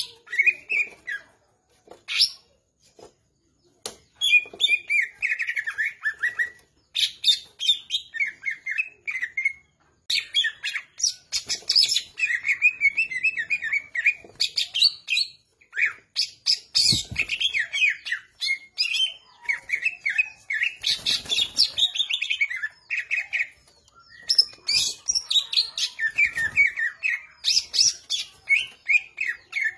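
Green leafbird (cucak ijo) singing in full voice: fast, varied phrases of sharp chirps and trills, broken by short pauses.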